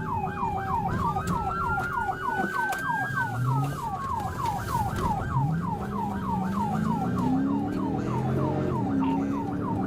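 Police car siren in a fast yelp, about four falling sweeps a second, with a second slower siren tone rising and then falling over it during the first half. Underneath, a vehicle engine rises in pitch as it accelerates, about three and a half seconds in and again from about five and a half seconds on.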